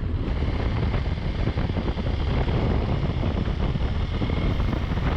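A motorcycle riding along, heard from the rider's camera: a steady rush of wind noise over the engine's running.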